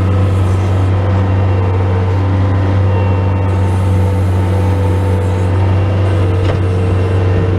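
Bobcat S185 skid steer loader's diesel engine running steadily under load with a steady whine above it, with one faint knock about six and a half seconds in.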